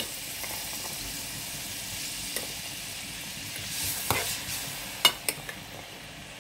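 Diced carrots, green peas and liver frying in a pan, a steady sizzling hiss, with a few sharp clicks of a metal spoon about four and five seconds in.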